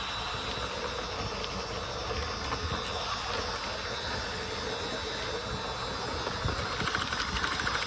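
Battery-powered model rail bus running along G-scale garden track: a steady rolling hum with hiss.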